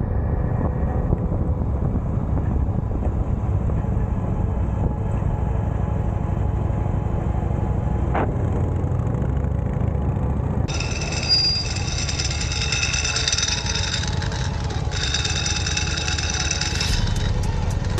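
Harley-Davidson V-twin motorcycle under way, a steady low rumble of engine and road with wind on the microphone. From about eleven seconds in, higher steady tones join, likely a music track.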